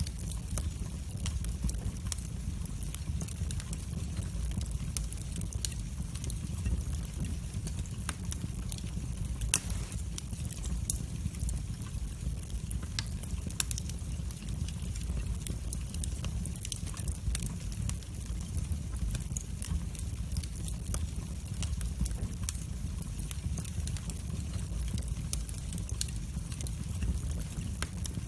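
Wood fire burning in a fireplace: a steady low rumble of flames with irregular crackles and sharp pops of burning wood, a couple of louder pops near the middle.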